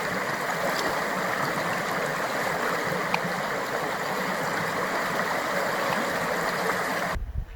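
Steady rush of running water, even throughout, cutting off abruptly near the end.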